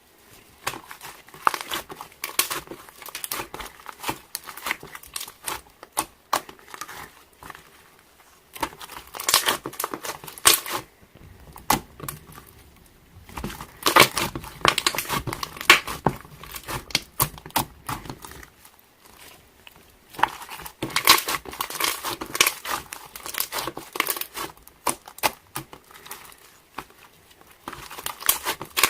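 Slime being squeezed, stretched and folded by hand, making dense crackling and popping in bursts, with short pauses between handfuls.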